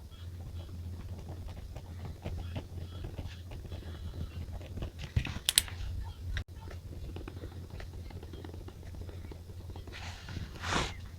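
Pen and paper handling on a diary: a run of small taps and scratches, with a sharp crackle about five and a half seconds in and a short rustle near the end.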